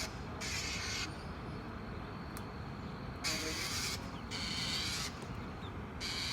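A bird giving harsh, raspy calls about half a second each, mostly in pairs: mobbing or alarm calls directed at a cat.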